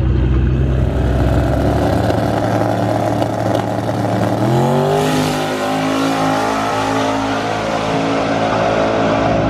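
Twin-turbo drag-race Mustang engine running steadily at a low speed. About four and a half seconds in, the revs rise quickly and then hold steady at a higher speed.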